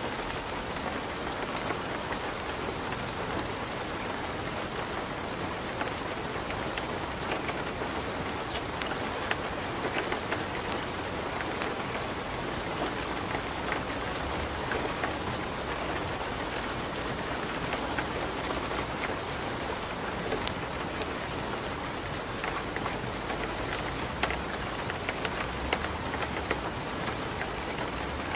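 Wood fire crackling in a fireplace: a steady hiss with frequent irregular snaps and pops.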